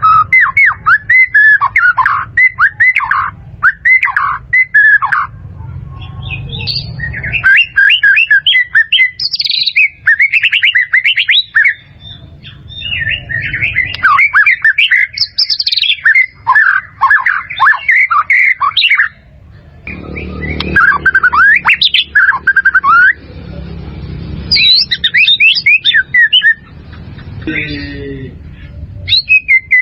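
White-rumped shama singing: rapid phrases of varied, quick-sweeping whistles and chattering notes, each phrase a few seconds long with short pauses between, over a low background rumble.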